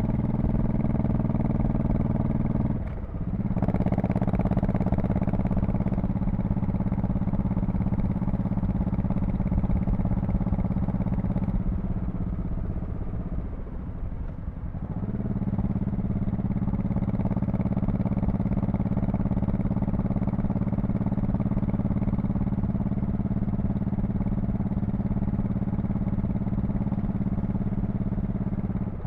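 2002 Honda Shadow Spirit VT1100C's 1100 cc V-twin exhaust running at a steady cruise. It drops off briefly about three seconds in, eases off for a few seconds in the middle, then pulls steadily again.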